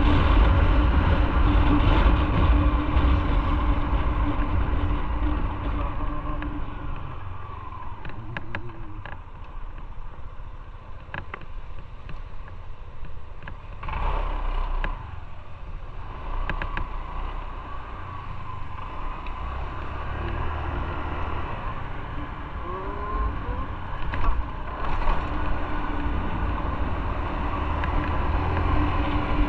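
Motorcycle being ridden: a steady engine note over road and wind noise. The engine note and overall level drop away after about seven seconds, then build back up near the end.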